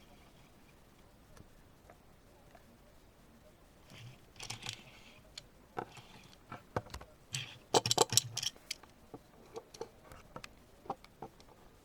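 Scattered small clicks, taps and rustling from hands handling a Tomica die-cast toy car and its packaging, with a brief burst of louder clicks about eight seconds in.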